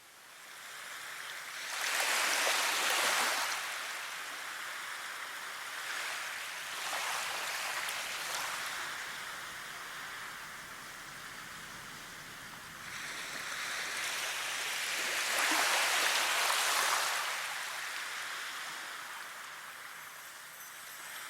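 Rushing water that swells and fades in surges, loudest about two seconds in, again around seven seconds and strongest near sixteen seconds.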